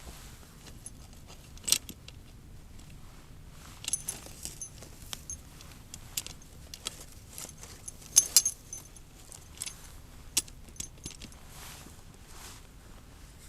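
Small metal objects clinking and jangling in irregular sharp taps, loudest about two seconds in and again around eight seconds in.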